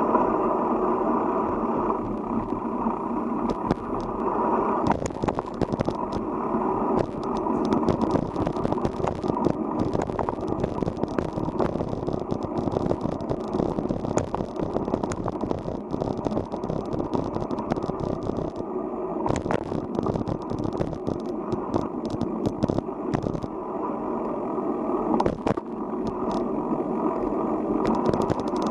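Riding a bicycle: steady wind rushing over the microphone, with frequent small clicks and rattles throughout.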